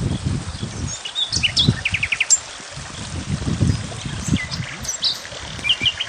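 Small birds chirping, with a few quick trills of rapid repeated notes. Under them runs a louder, irregular low rumbling that eases off near the end.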